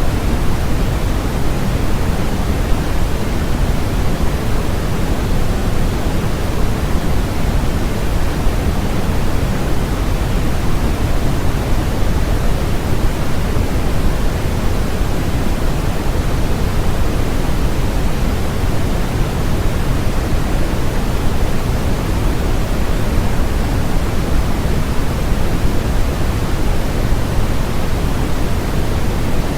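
Steady electronically generated noise sold as sleep-aid white noise: a constant, unchanging hiss with most of its weight in the low end, thinning toward the highs.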